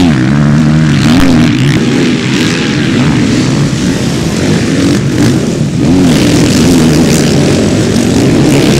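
Several motocross motorcycles racing, their engines revving up and down and overlapping as the riders work the throttle around the track.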